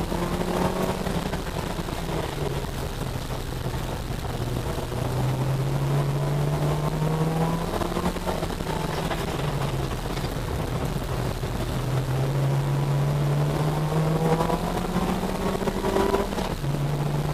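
Citroën Saxo VTS 8-valve four-cylinder engine heard from inside the cabin while it is driven hard on a circuit. Its note steps up and down several times as it accelerates, changes gear and lifts for corners, over steady road and wind noise.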